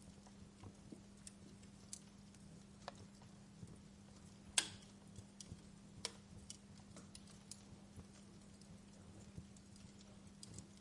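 Wood fire crackling: scattered sharp pops and snaps at an irregular pace, the loudest pop about halfway through, over a low steady hum.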